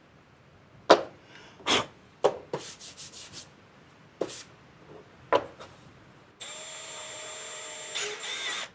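Several sharp knocks and scrapes of parts and tools being handled, then a power drill runs steadily for about two seconds near the end, drilling new mounting holes for the intake parts that would not line up.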